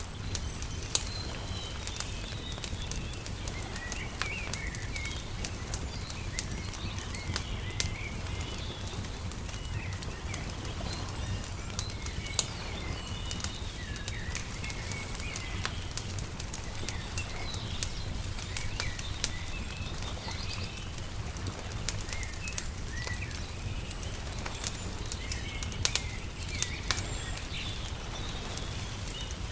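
Wood fire crackling with scattered sharp pops, over small birds chirping and twittering throughout and a steady low rumble.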